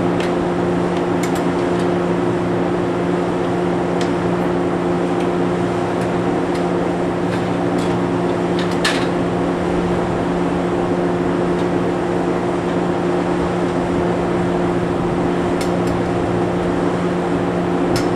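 Steady hum from the onboard electrical equipment of stationary Shinano Railway 115 series electric trains, holding two constant tones, with a few faint clicks.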